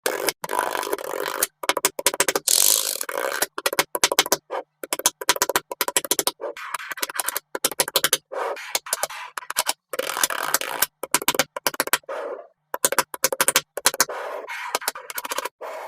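Small magnetic balls clicking, snapping and rattling against each other as they are handled, in short edited bursts that cut off suddenly.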